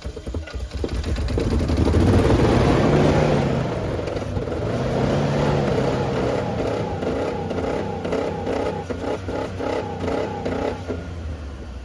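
2004 Dodge Dakota's engine just caught on a hard cold start, revved up loud in the first couple of seconds, then blipped up and down repeatedly before dropping back near the end.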